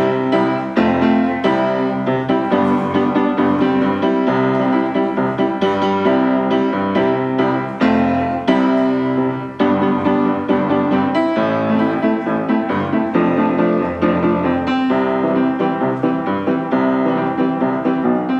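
Piano music: a steady run of notes and chords at an even, moderate pace.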